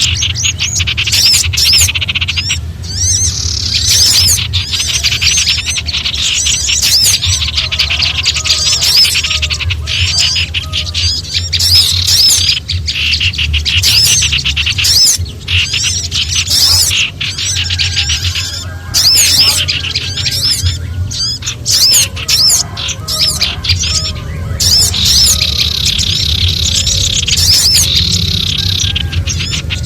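Lure recording of several small songbirds chattering in alarm, with dense, rapid, high-pitched chirps and scolding trills overlapping one another. A steady low hum runs underneath.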